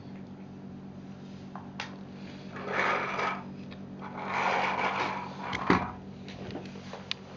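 Small plastic LEGO bucket scraping and rattling through loose wooden pieces, twice, with a sharp click after the second, over a steady low motor hum.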